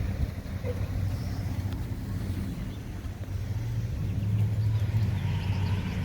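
Low, steady engine rumble with a faint hum, slightly louder in the second half.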